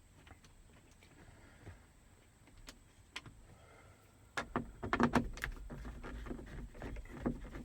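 Small plastic clicks and handling noises from a car's dome light assembly being worked by hand, sparse at first and becoming a louder run of clicking and clattering from about halfway through.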